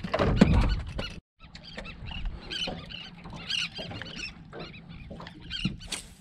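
Birds calling: many short, high squeaky chirps in quick succession. A louder stretch of noise in the first second stops suddenly.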